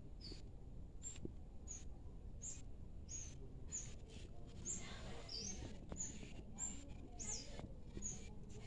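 A small bird chirping over and over: short, faint, high rising notes, one every half second to a second.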